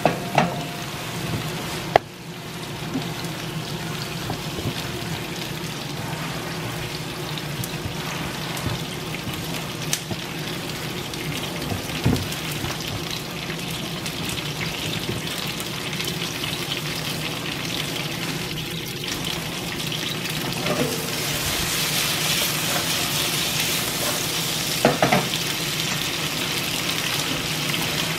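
Small green peppers sizzling steadily as they fry in oil in a nonstick pan, with a few sharp knocks. The sizzle grows louder over the last several seconds.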